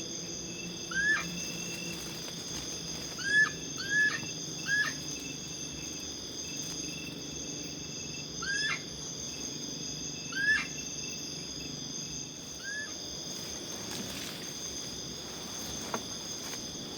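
Night insects droning steadily in several high, even tones, with an unseen animal giving short, rising chirp-like calls about seven times at uneven intervals. A single sharp click sounds near the end.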